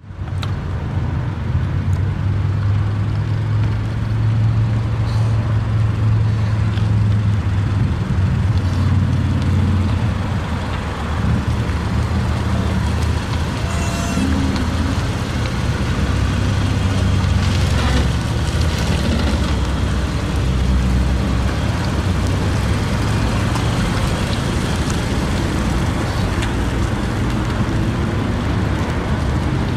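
Car engine running with road noise: a steady low hum that rises and eases a little in pitch now and then.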